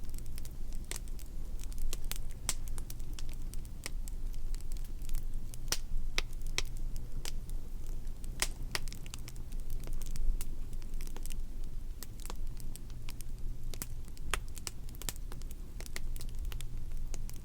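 Wood fire crackling: irregular sharp pops and snaps, several a second at uneven intervals, over a steady low rumble.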